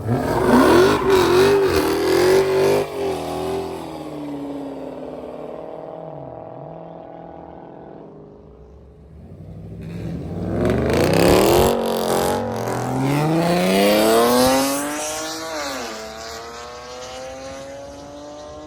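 Car engines accelerating hard: one loud run dies away with falling pitch, then about ten seconds in an engine climbs steeply in pitch, drops at an upshift, and pulls again in the next gear.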